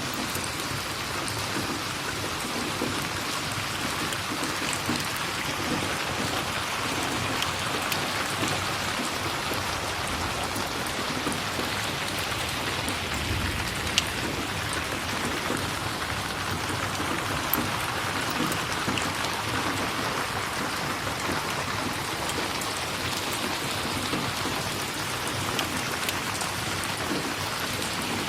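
Steady rain falling, an even hiss with a few sharp clicks, the loudest about fourteen seconds in.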